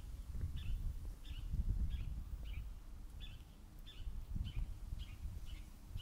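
A bird calling over and over, about nine short high notes, each falling in pitch and evenly spaced, over a gusty low rumble.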